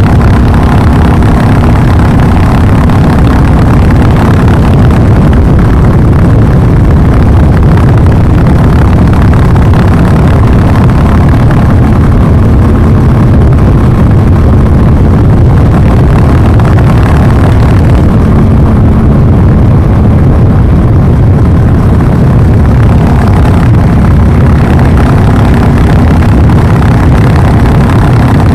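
Exhaust of an old-model Royal Enfield Classic 350's single-cylinder engine running steadily, loud and even with no revving.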